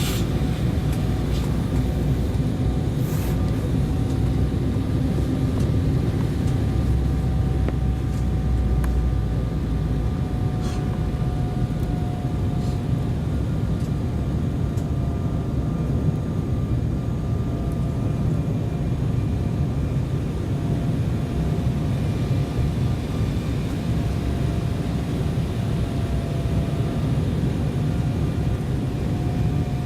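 Steady cabin noise inside an Embraer 190 airliner: a low rumble of the engines and airflow with a faint, slightly wavering whine over it and a few faint clicks.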